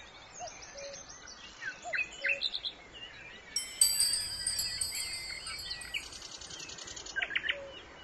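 Recorded birdsong: birds chirping and trilling, with a fast trill near the end. About three and a half seconds in, a bright, high ringing sound comes in over it and is the loudest part for a second or two.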